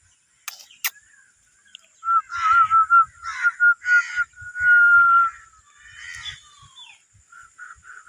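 Birds calling: a run of harsh, caw-like calls over a high, warbling whistle that ends in one long steady note about five seconds in. Two sharp clicks come just before the calls.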